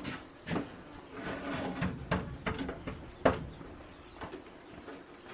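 Scattered knocks and clatter of things being handled, with one sharper knock a little past the middle, over faint background voices.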